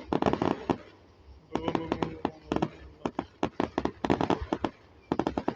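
Fireworks going off in rapid strings of sharp pops and crackles. There are about four volleys, each a second or more long, with short gaps between them.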